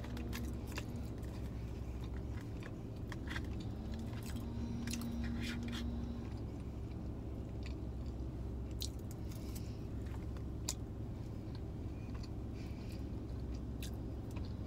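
A person chewing chili cheese fries close to the microphone, with scattered small clicks from a plastic fork on a paper food tray, over a low steady hum.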